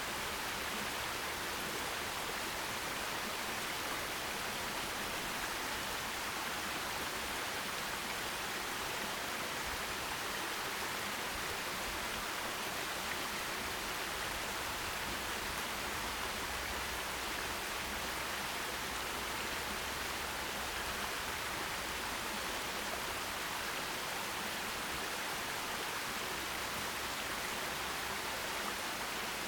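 Forest stream of running water: a steady, even rush with no single splashes standing out.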